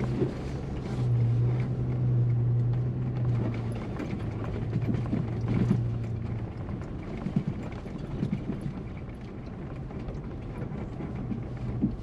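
Four-wheel drive moving slowly, heard from inside the cabin: a steady low engine hum with irregular knocks and rattles. The hum fades about halfway through.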